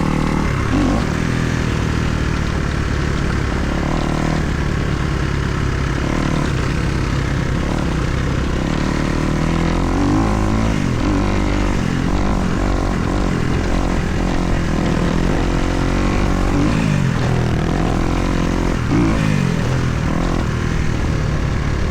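Kawasaki KX250 motocross bike's single-cylinder four-stroke engine revving up and falling back again and again while being ridden, over a steady rush of noise.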